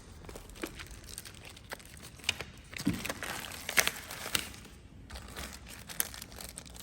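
Thin protective plastic film crinkling and crackling as it is handled and pulled off an acrylic panel, with irregular sharp snaps.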